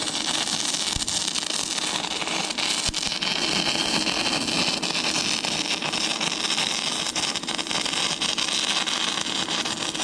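Stick welding arc from a 6011 electrode burning on rusty, painted thin steel: a steady crackling, sizzling hiss with constant fine spitting, held without a break.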